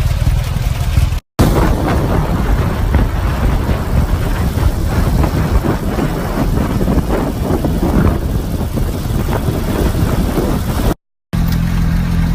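Motorcycle engine running while riding through city traffic, a steady low rumble with wind noise on the microphone. The sound cuts out briefly about a second in and again near the end.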